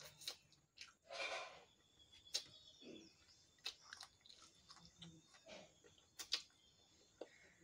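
Faint close-up eating sounds: scattered wet mouth clicks and smacks as rice and egg curry eaten by hand are chewed, with one longer breathy, sucking noise about a second in.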